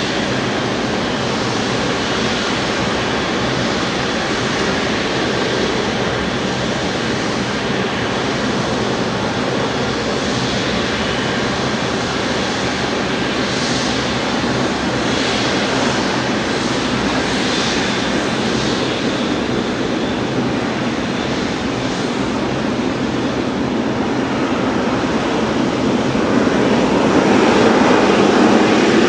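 Airliner engine noise, a steady rushing hum that grows louder over the last few seconds.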